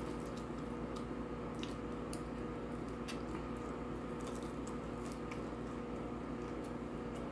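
Close-up chewing and wet mouth sounds of someone eating French fries, with small sharp clicks and smacks. A steady low electrical hum runs underneath.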